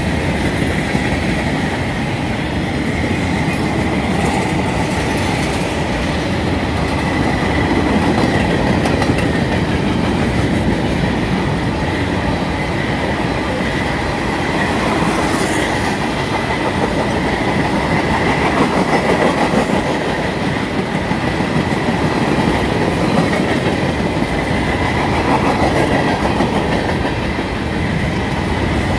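Freight cars (covered hoppers, tank cars and boxcars) rolling steadily past, their steel wheels clattering over the rail joints, with a thin, steady high-pitched tone running through.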